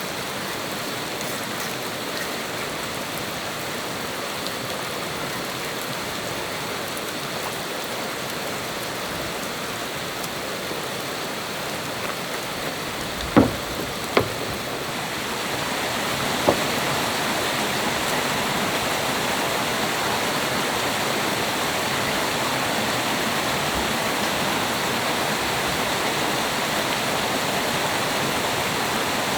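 Steady rush of flowing water from a stream, growing a little louder about halfway through, with three sharp knocks near the middle.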